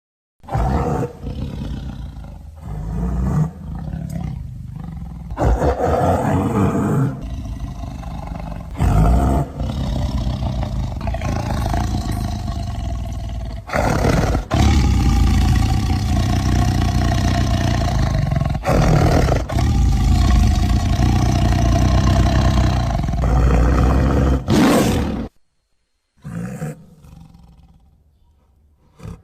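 Roars of a made-up giant prehistoric bear, a designed creature sound effect: several short roars, then three long ones of about five seconds each, the last cutting off sharply, followed by a couple of brief calls.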